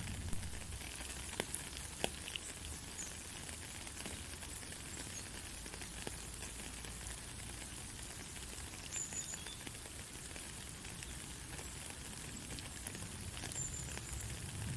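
Heavy rain falling steadily, an even hiss with scattered sharp drop ticks, a few louder ones in the first two seconds.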